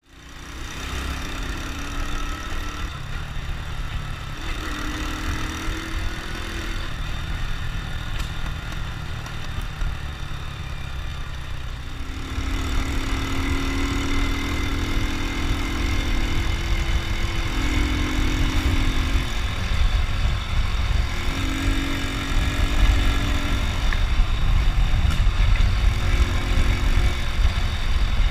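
Honda Win two-stroke single-cylinder motorcycle engine running, its pitch stepping up and down every few seconds. It grows louder from about halfway through.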